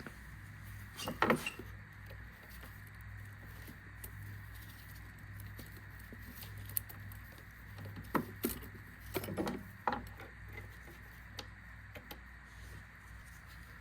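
Tools and small metal parts being handled during bike repair: a few light clinks about a second in and a cluster of them between eight and ten seconds in, over a low steady hum.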